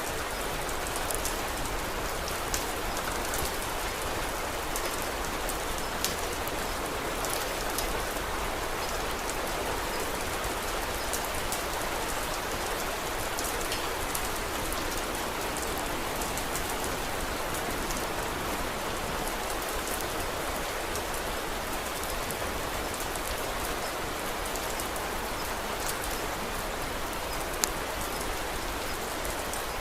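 Steady rain falling in an even hiss, with scattered sharp crackles from a wood fire and one louder crack near the end.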